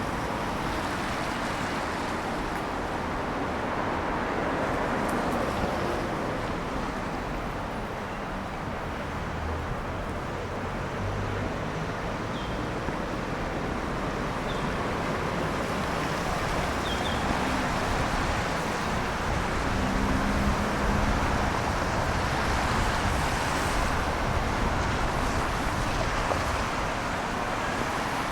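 Steady city street traffic: cars passing on wet roads, their tyres hissing on the wet surface over a constant hum of engines.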